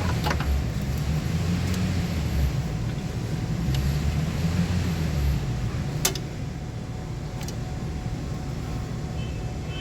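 Low, uneven vehicle rumble that swells and fades, with a few sharp clicks, one loud one about six seconds in.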